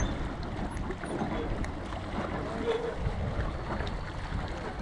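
Wind rushing over the microphone, with lake water lapping, as a steady noise without a clear pitch.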